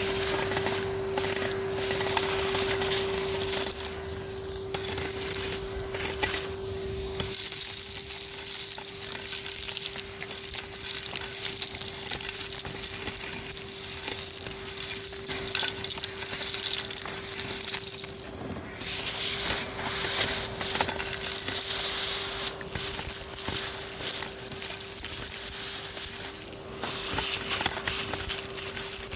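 Henry HVR 200-22 tub vacuum cleaner running with a steady motor hum, while grit and debris crackle and rattle as they are sucked up the hose.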